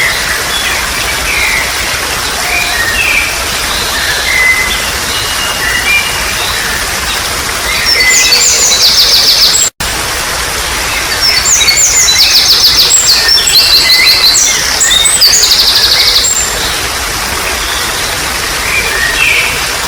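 Steady rush of trickling water with several birds chirping over it. From about eight seconds in, loud fast trills repeat for several seconds, broken once by a sudden split-second dropout.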